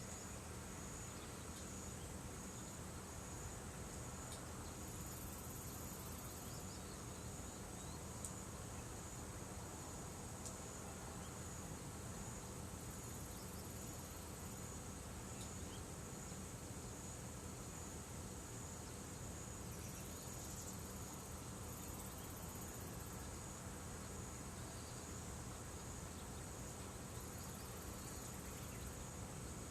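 Insects calling: a high-pitched chirring that pulses evenly without a break, with a second, higher buzzing that comes and goes every few seconds. A few faint ticks sound now and then.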